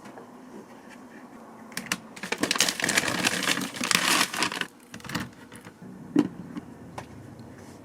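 Rapid crackling clatter of many small clicks lasting about three seconds, followed by a few separate light knocks, from kitchen work.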